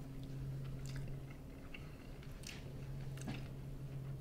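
A man chewing a mouthful of soft, juicy baked salmon with a breadcrumb topping, with a few faint mouth clicks, over a steady low hum.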